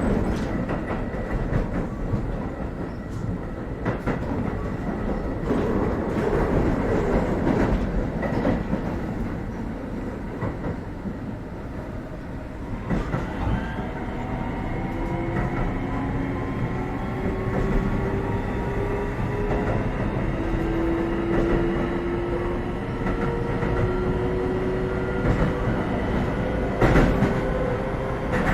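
Keio 7000 series electric train running at speed, heard from inside a car, its wheels clacking over rail joints. About halfway through, the traction motors start to whine in several thin tones that rise slowly in pitch as the train gathers speed.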